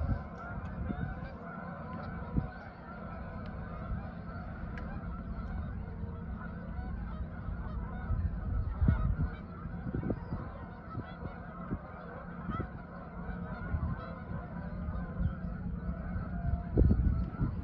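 A large flock of geese honking continuously, many birds calling at once, with wind gusting on the microphone.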